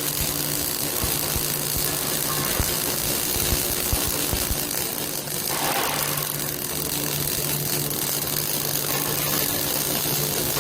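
Automatic rolling welding machine running: a steady electrical hum under a constant hiss, with scattered low knocks in the first half and a brief louder rush about halfway through.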